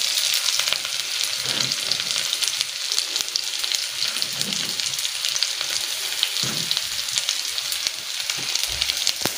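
Chopped onions sizzling in hot oil in a metal pan: a steady high hiss sprinkled with fine crackles.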